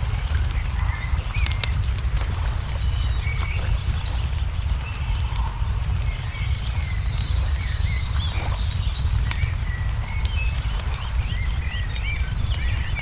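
A mixed ambience of a crackling wood fire, with scattered sharp pops and snaps, and small songbirds chirping and trilling over a steady low rumble.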